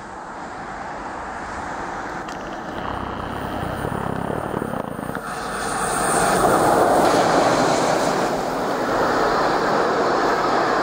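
Class 151 electric locomotive hauling a long intermodal container freight train, approaching and passing. The rumble grows louder and is loudest as the locomotive passes about six seconds in, then gives way to the steady rolling noise of the container wagons going by.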